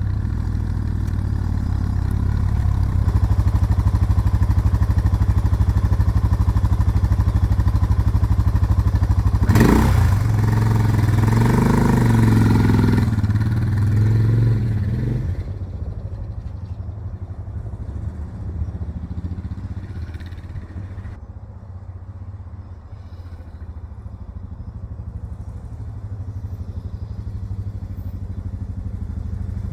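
Suzuki DR650's single-cylinder engine running just after a cold start, the bike having sat through the winter. It runs loud and steady, turns louder and uneven from about ten seconds in to about fifteen, then carries on noticeably quieter.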